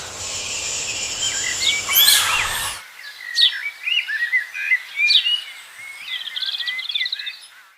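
Several birds chirping and whistling in short rising and falling calls, with a fast trill near the end. For the first three seconds a steady rushing outdoor ambience runs under the calls, then cuts off abruptly.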